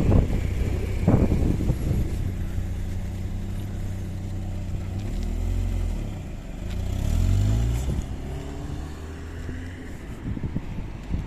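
A motor vehicle's engine running close by, a steady low drone whose pitch dips and then climbs again about five to eight seconds in, loudest around seven seconds. There are a couple of short low thumps near the start.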